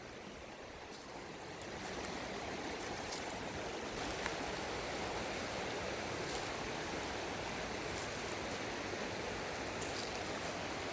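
Steady rushing of flowing water, swelling up about two seconds in and then holding even, with a few faint clicks.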